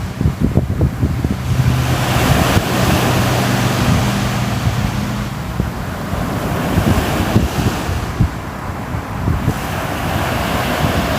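Ocean waves washing ashore, the surf surging and ebbing every few seconds, with wind buffeting the microphone. A low steady hum runs under it for the first half.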